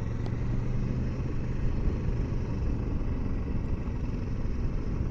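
2020 Kawasaki Versys 650 motorcycle's parallel-twin engine running steadily while riding, with a low rumble of wind and road noise.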